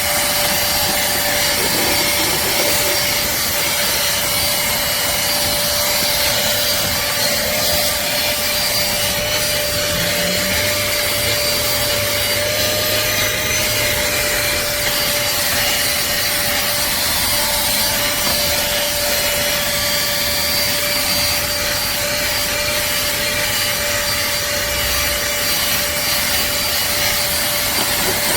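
Cordless handheld vacuum cleaner running steadily, its motor giving a constant whine over a loud rushing hiss.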